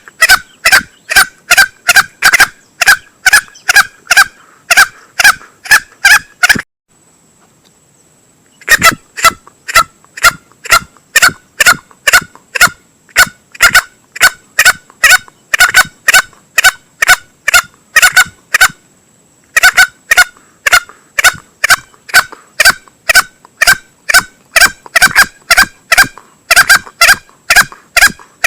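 Male green junglefowl lure call, used for hunting: short, sharp calls repeated about three times a second in long runs, with a pause of about two seconds near a quarter of the way in and a briefer one about two-thirds through. A faint steady high-pitched tone runs underneath.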